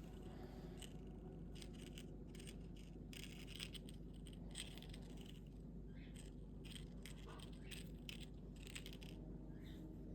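Faint, scattered light clicks and scratchy scrapes, irregular and a few each second, over a steady low room hum.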